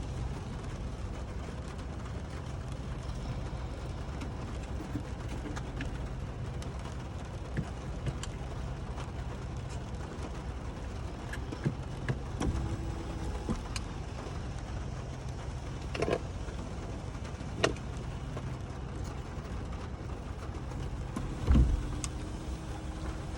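Truck engine idling steadily, heard from inside the cab, with scattered light clicks and knocks and a louder thump about 21 seconds in.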